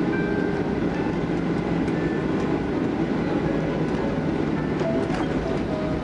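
Jet airliner cabin noise during the landing roll or taxi: a steady rumble of the engines and the wheels on the runway, with light rattles.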